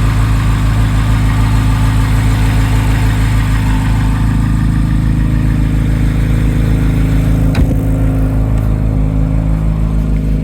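Corvette V8 engine idling steadily, with a single sharp click about three quarters of the way through.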